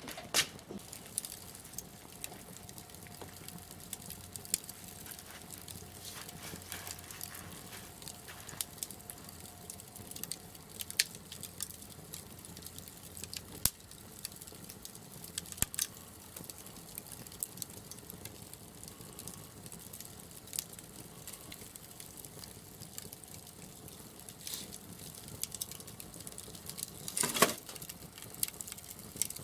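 Wood fire crackling, with scattered sharp pops and one louder crack near the end.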